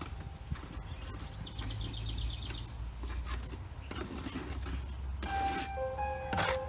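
A small bird chirping a quick trill of evenly repeated high notes about a second and a half in, over a steady low rumble, with a few brief noisy rasps later.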